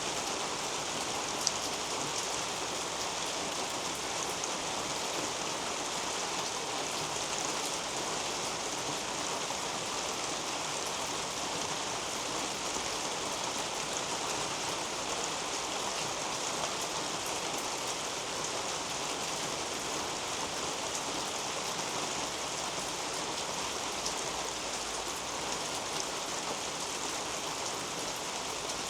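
Steady rain falling on a leafy garden canopy, an even patter with a few single drops ticking close by.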